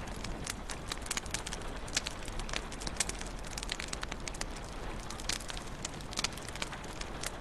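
Wood fire crackling in a fireplace: irregular sharp pops and snaps, several a second, over a steady low hiss.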